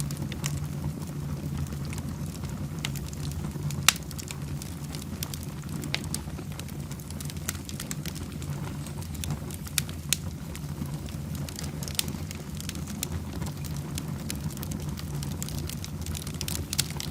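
Fire burning in a fireplace: a steady low rumble with scattered crackles and pops, the sharpest pop about four seconds in.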